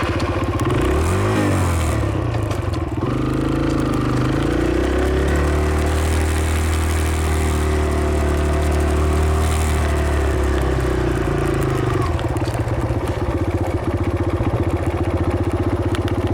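Dirt bike engine running, its pitch rising and falling under throttle for the first ten seconds or so, then settling to a steady idle about twelve seconds in.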